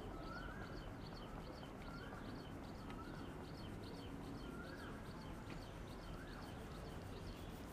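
Faint bird calls: short high chirps repeated about three times a second, with a lower rising-and-falling whistled note about every second and a half.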